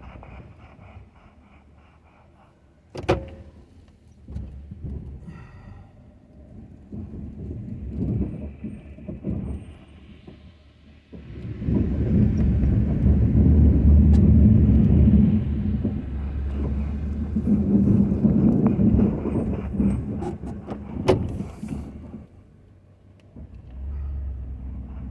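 Ford F-250 pickup truck's engine running, much louder for about ten seconds in the middle, with a sharp knock a few seconds in and another near the end.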